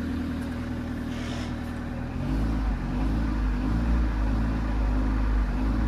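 A Ford car's engine running at idle with a steady hum. About two seconds in, the sound grows louder in the low end.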